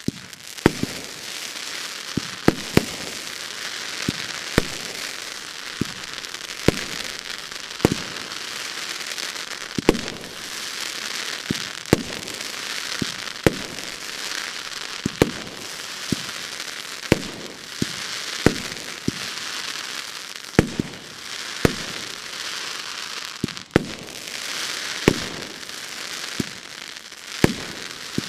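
Funke Scala 25E, a 30 mm, 25-shot consumer firework battery, firing shot after shot at about one launch a second, with a steady hiss between the shots.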